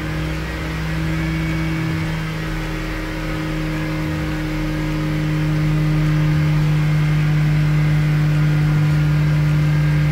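Vauxhall Corsa engine held at a steady fast idle of about 4,000 rpm, heard from inside the car, its note rising a little about halfway. It is being run hard to check whether it overheats with its coolant leak.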